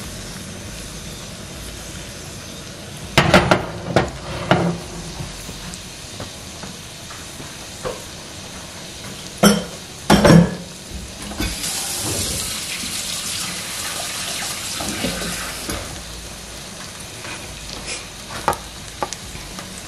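Eggs with sausage and peppers sizzling steadily in a cast iron skillet. Dishes clatter several times, and water runs for a few seconds in the middle.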